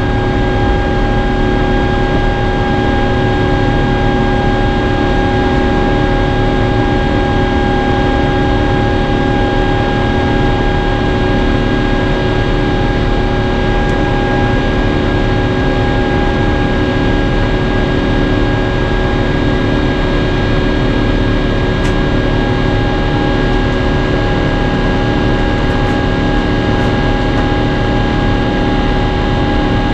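Airbus A350-900 cabin noise during the climb after takeoff: the Rolls-Royce Trent XWB engines and the rushing airflow make a loud, steady noise with several steady engine tones held throughout.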